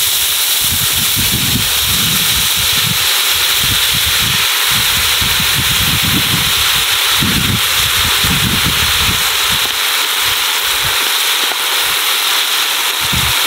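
Armadillo chicharrones and lard sizzling hard in a hot disco griddle just after Huichol hot sauce has gone into the fat: a loud, steady frying hiss. An irregular low rumble runs underneath until about ten seconds in.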